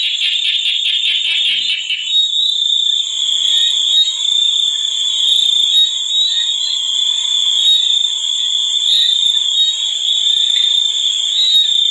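Nature chorus: a steady high-pitched drone like cicadas or other insects. A fast, rapidly pulsing call like a frog's sits over it for the first two seconds and then stops.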